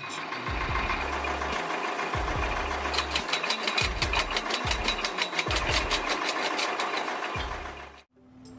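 Tractor-driven rotary wood splitter running, its rotating gears driving the splitting wedges through logs: dense mechanical clatter with irregular low thuds and, in the middle, a fast even rattle. It cuts off suddenly near the end.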